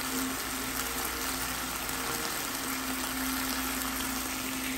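Fish fillets sizzling in oil in a non-stick frying pan: a steady hiss, with a steady low hum beneath it.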